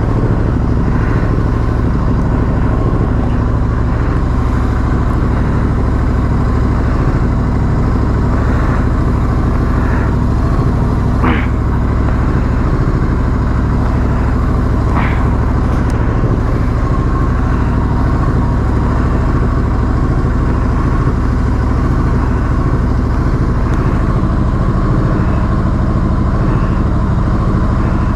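Royal Enfield Continental GT 650's parallel-twin engine idling steadily while it warms up after a cold start.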